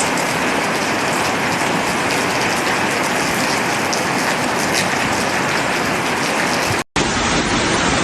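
Heavy rain pouring down as a steady, even hiss. About seven seconds in, a brief dropout cuts to another stretch of similar rushing-water noise.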